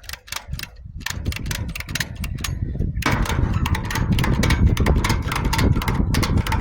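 Ratchet tie-down strap being worked against a scrap-metal load: a rapid, irregular run of sharp clicks and clatter. It gets louder and busier from about three seconds in, with a low rumble underneath.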